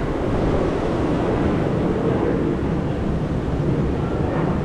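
Steady outdoor rumble of wind buffeting the microphone, mixed with city traffic.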